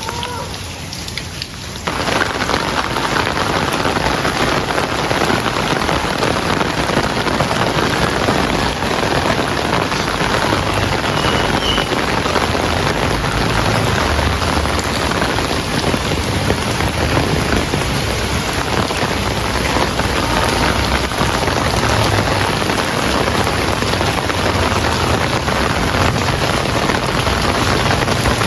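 Heavy rain pouring down steadily in a dense, even hiss. It comes in abruptly louder about two seconds in.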